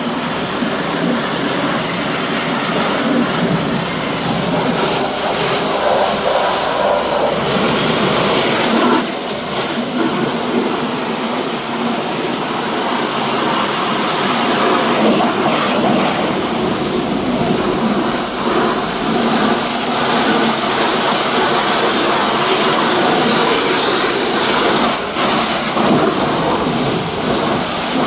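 Car-wash machinery running with a steady, loud rushing hiss, dipping briefly about nine seconds in.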